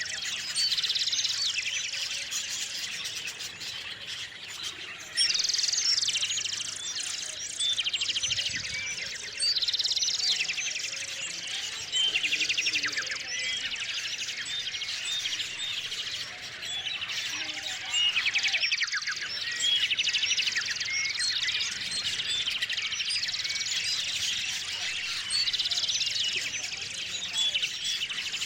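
Small songbirds calling, a continuous chorus of chirps with loud, rapid chattering phrases every two to three seconds.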